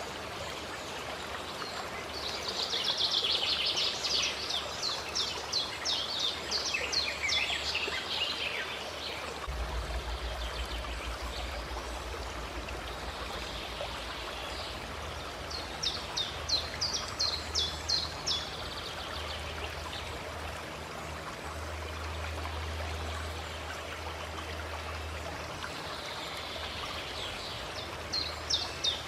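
Steady running water of a stream, with a songbird singing three bouts of rapid, high chirping notes over it.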